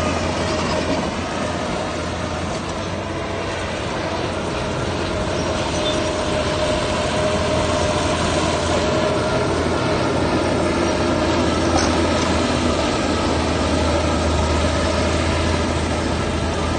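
Heavy vehicle's diesel engine running steadily under load, a dense continuous mechanical rumble with a constant low hum.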